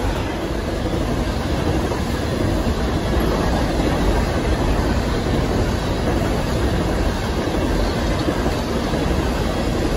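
A long freight train of open-top coal cars rolling steadily past at close range: a continuous noise of steel wheels running on the rails and cars rattling, strongest in the low range.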